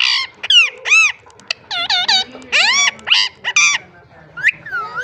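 Pet green parrot giving a quick run of shrill, whistled calls, each one arching up and down in pitch, with a short pause near the end.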